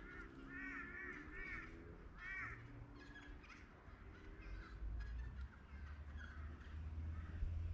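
Birds calling in short series of harsh, crow-like caws, each note rising and falling, with other bird calls in between. A low rumble grows louder in the second half.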